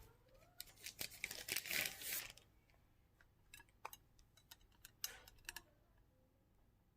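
Faint handling noises: a rustle of packaging for about two seconds as another tortilla wrap is taken out, then scattered light clicks and taps, with a short rustle about five seconds in.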